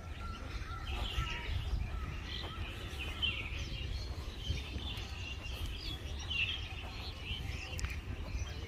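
Small birds chirping and twittering in short repeated phrases, over a low steady rumble.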